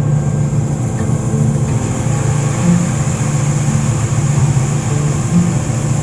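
John Deere 9500 combine running steadily: a low engine drone with a constant high-pitched whine above it.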